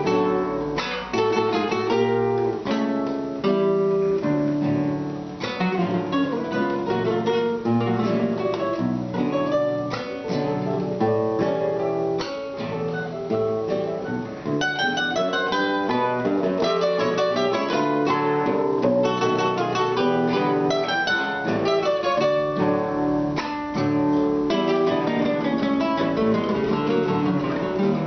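Instrumental music from a trio, led by acoustic guitar, plucked and strummed with many quick notes and no singing.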